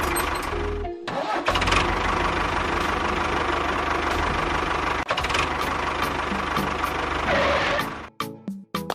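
A tractor engine runs steadily with a low chugging pulse, dropping out briefly about a second in and stopping about eight seconds in. Short pops follow near the end.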